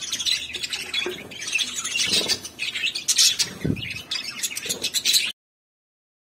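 Budgies chattering and chirping in quick, broken calls, mixed with small clicks; the sound cuts off abruptly about five seconds in.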